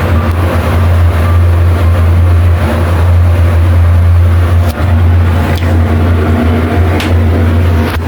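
Mitsubishi elevator car's ventilation fan running loud, a steady low hum with rushing air, with a few faint clicks in the second half.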